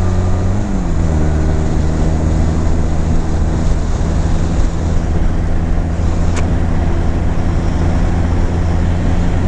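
2009 Honda Rebel 250's air-cooled parallel-twin engine running under acceleration, with wind rush over the helmet microphone. Its note drops just under a second in as it shifts up a gear, then holds steady. A single sharp tick comes about six seconds in.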